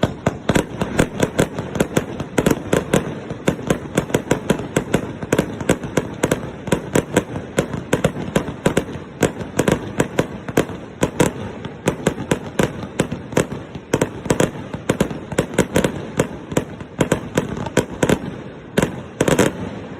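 A rapid, unbroken barrage of aerial firework shells bursting close by: several sharp bangs a second over a steady crackle, cutting off at the end.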